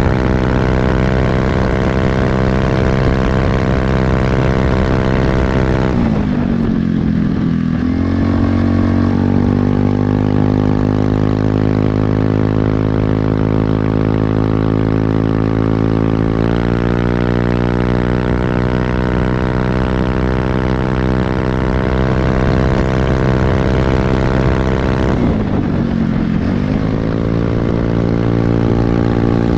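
Automatic scooter's single-cylinder engine running through an aftermarket CMS-copy quiet muffler, mostly at a steady engine speed. The pitch sags and comes back up twice, about a fifth of the way in and near the end, with a small step up around the middle.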